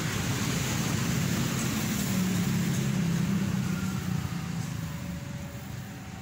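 Passenger train of stainless-steel coaches running over the rails as its tail end passes and draws away. The sound fades gradually from about four seconds in.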